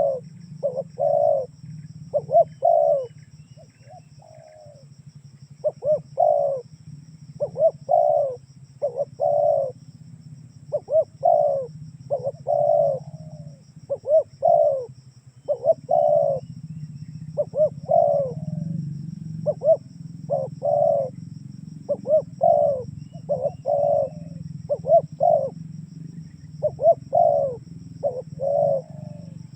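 Spotted dove (tekukur) cooing over and over, in phrases of two or three coos separated by short pauses, over a steady low hum.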